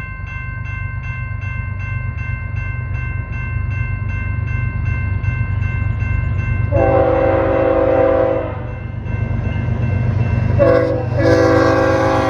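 A diesel locomotive's horn sounds a long blast, then a short one and another long one, part of a grade-crossing signal, over the steady rumble of the locomotive's diesel engine. Before the horn comes in, a grade-crossing warning bell rings at an even pace of about two to three strikes a second.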